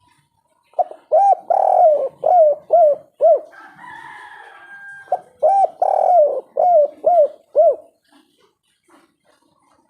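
Spotted dove cooing its 'kuk 3' song: two phrases of about two and a half seconds each, each a quick run of about six rising-and-falling coos. A fainter, higher, steady call sounds in the gap between the phrases.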